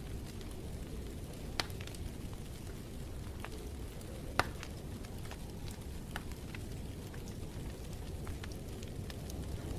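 Wood fire crackling in a fireplace: a steady low rumble with scattered sharp pops, the loudest about a second and a half and four and a half seconds in.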